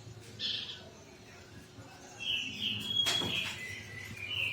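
Pied bushchat (mantenan) singing: a short chirp, then from about two seconds in a longer warbling phrase with one held note, with a single click partway through.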